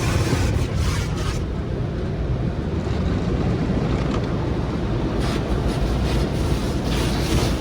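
Automatic car wash tunnel equipment running: a steady, loud rush of water spray and machinery. A higher hiss drops away about a second and a half in and comes back near the end.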